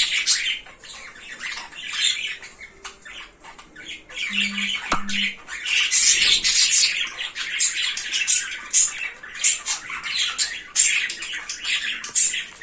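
Cockatiels squawking over and over in harsh, scratchy calls. Two short low beeps come close together about four and a half seconds in.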